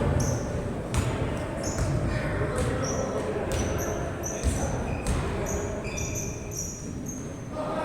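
Basketball game play: a ball bouncing on the court and sneakers squeaking in many short chirps, over a murmur of voices.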